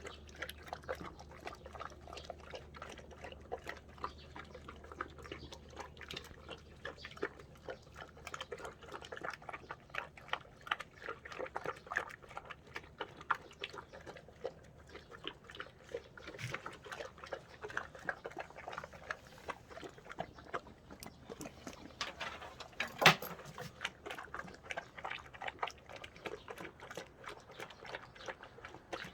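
A Cane Corso eating dried pollock from a large pot: continuous, irregular chomping and smacking of its jaws, with one louder sharp knock partway through.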